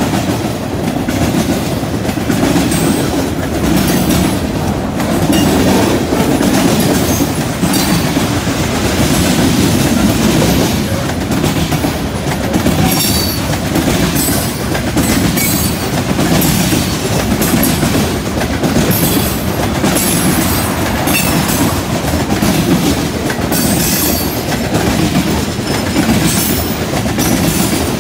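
Freight train of tank cars rolling past at close range: a steady rumble of steel wheels on rail with repeated clickety-clack as the wheels cross the track joints.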